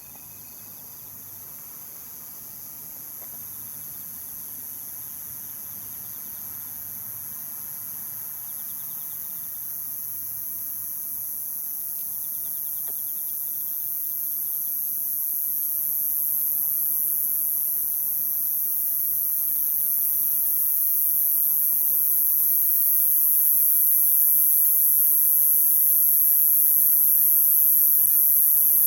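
Steady, high-pitched chorus of night insects such as crickets, growing steadily louder.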